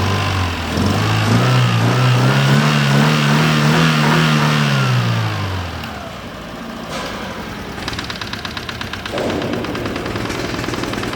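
Used contract car engine revved up and let back down, then running at a rough, uneven idle. It is running on three cylinders, a misfire, and something in it rattles.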